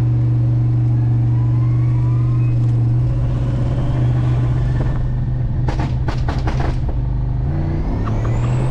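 Turbocharged 6.2-litre LSA V8 in a 1987 Chevrolet Caprice, heard from inside the cabin, running at a steady cruise. A faint rising whine comes about a second in and again near the end, and a short cluster of sharp noises comes about six seconds in.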